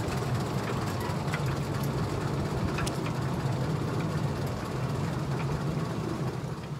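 Narrow-gauge goods train of log-loaded flat wagons rolling past on the track: a steady rumble with scattered light clicks from the wheels. It starts to fall away at the very end as the train draws off.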